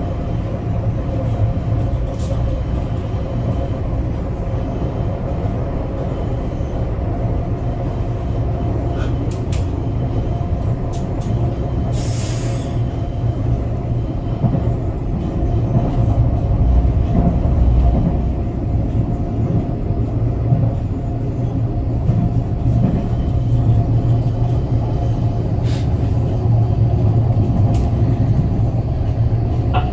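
Passenger train running at speed, heard from inside the carriage: a steady low rumble with a constant hum. There is a brief hiss about twelve seconds in.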